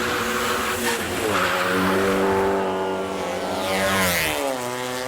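A modified car's engine revving up about a second in, holding at steady high revs for a couple of seconds, then dropping back and settling lower near the end.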